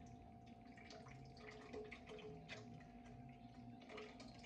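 Near silence: a faint steady hum with scattered light ticks and kitchen handling noises.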